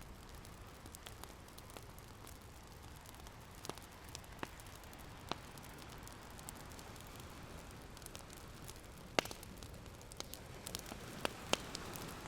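Open wood fire crackling, with sharp pops scattered through it and the loudest about nine seconds in, over a steady wash of ocean waves that swells near the end.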